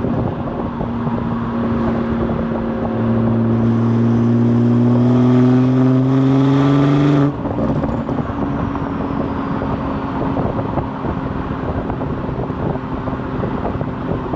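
BMW 440i's Gen 1 B58 3.0-litre turbocharged inline-six exhaust, running a tuned burble setting, pulls with its pitch rising for a few seconds, then drops off suddenly about seven seconds in. It then runs on at a lower, steady pitch with a rougher, uneven sound.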